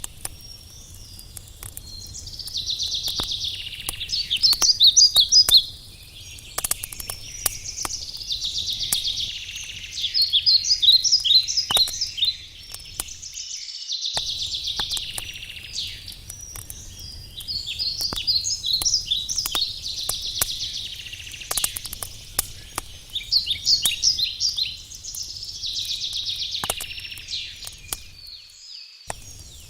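A songbird repeating a short phrase of rapid high notes about every five to six seconds, over the crackling and popping of a wood campfire.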